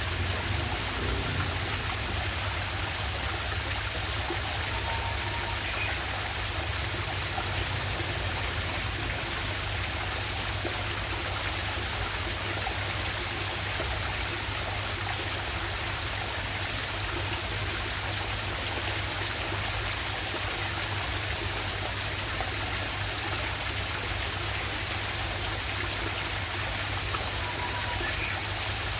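Steady rush of a small waterfall and stream, water running without a break.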